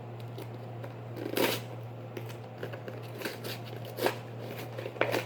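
Trading cards and their cardboard box being handled: a few short rustles and taps as cards are squared up and moved, over a steady low hum.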